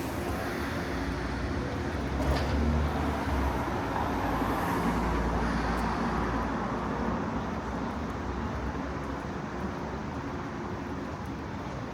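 City street traffic: a road vehicle passes close by, its rumble swelling a couple of seconds in and fading away over the steady street noise.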